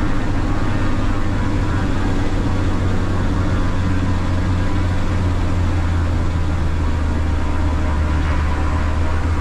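Single-engine Cessna's piston engine and propeller droning steadily in flight, with an unchanging low hum.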